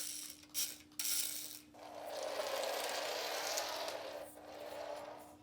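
Micro 1/64-scale RC drift car's tiny electric motor and gears whirring as it drives: two short bursts, then a longer run of about two and a half seconds.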